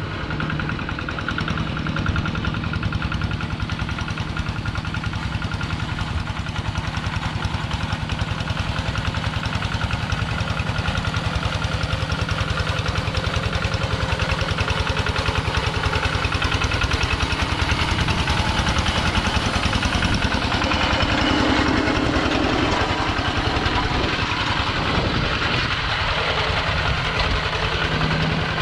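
Kubota two-wheel tractor's single-cylinder diesel engine running steadily, with an even, rapid chugging beat.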